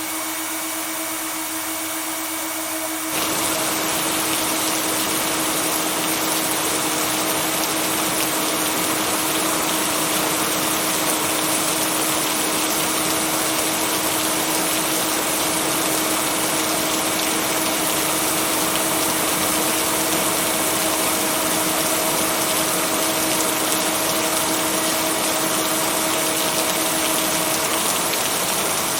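Steady rain hiss mixed with a low hum of held tones, the binaural-beat layer of a sleep-sound mix. The rain gets louder and fuller about three seconds in, and no thunder is heard.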